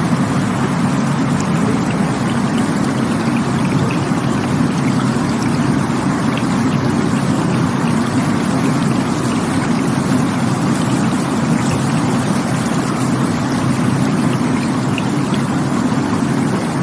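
Rushing water: a steady, unbroken rush, heaviest in a deep low rumble.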